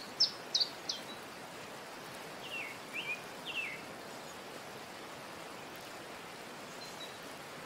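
Birds chirping: short, quickly falling chirps in little runs, three in the first second and three more about three seconds in, over a steady hiss.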